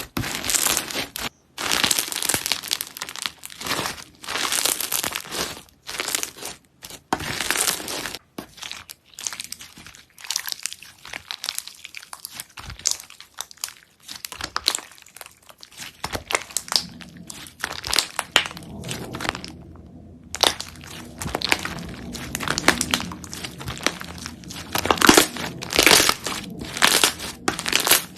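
Slime being squeezed, pressed and stretched by hand, giving dense crackling and crunching sounds in uneven bursts, with a short break about twenty seconds in.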